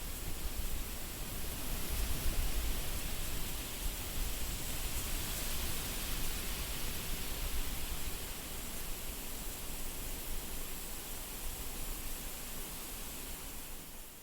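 Wind blowing steadily, a rushing hiss over a low rumble of wind on the microphone, gusting a little stronger about two seconds in.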